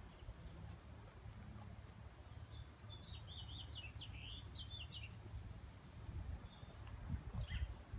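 A small songbird singing one quick run of high chirping notes, about three to four seconds in, over a faint steady low outdoor rumble.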